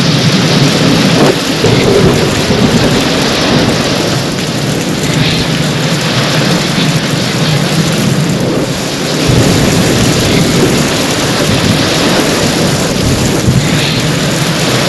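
Heavy rain falling steadily in a thunderstorm, with thunder rumbling underneath; the low rumble swells about nine seconds in.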